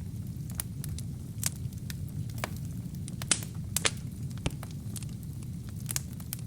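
Wood fire burning in a fireplace: irregular sharp crackles and pops over a steady low rumble of the flames, with a couple of louder pops a little past the middle.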